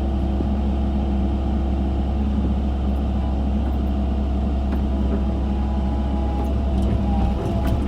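Excavator's diesel engine running steadily under load while digging, with a few higher whining tones and light clicks near the end.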